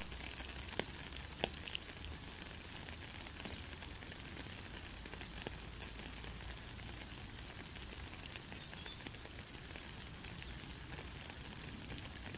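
Steady white-noise hiss with scattered faint crackles and ticks, a sleep sound for a baby.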